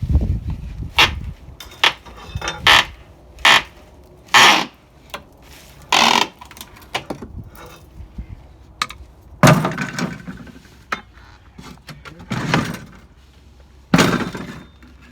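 Old wooden window trim being knocked and pried off: irregular sharp knocks, cracks and scrapes of wood, with heavier blows now and then.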